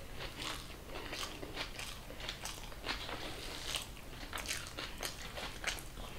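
Close-miked chewing: a person eating a mouthful of rice and fried food, crunching in quick, irregular bites.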